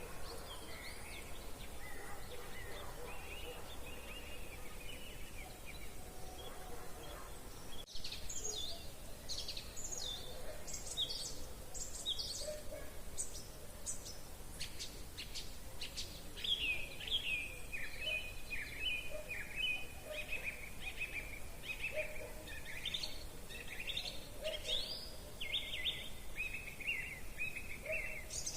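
Songbirds singing in spring woodland: a few scattered calls at first, then a quick run of high notes about eight seconds in, then a long, varied warbling song to the end.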